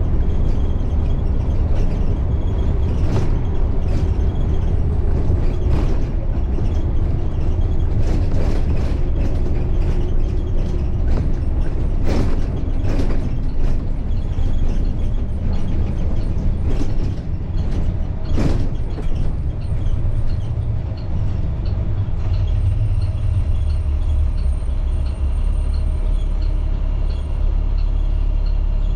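A 2010 IC CE300 school bus under way, heard from inside: its MaxxForce DT inline-six diesel runs with a steady low rumble, while sharp knocks and rattles come through as it goes over bumps and potholes. After about twenty seconds the knocks stop and the sound settles into a smoother, steady drone.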